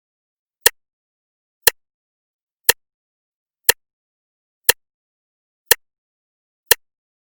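Clock ticking once a second: seven sharp, even ticks with nothing heard between them.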